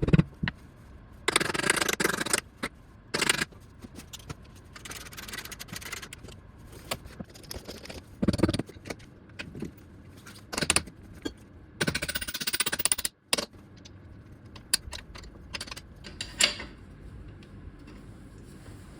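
Metal tools and parts clinking and rattling against each other, with several short bursts of louder scraping.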